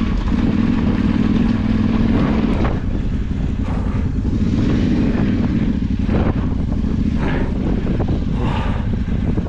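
Off-road motorcycle engine running under way on a trail, its note dipping briefly about three seconds in, with a few sharp knocks in the second half.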